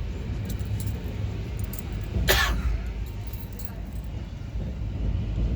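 Steady low rumble of a moving train, with one short, sharp noise about two seconds in.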